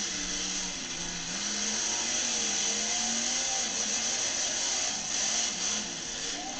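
Monster truck engine running at a distance, its pitch rising and falling as the throttle is worked, over a steady hiss.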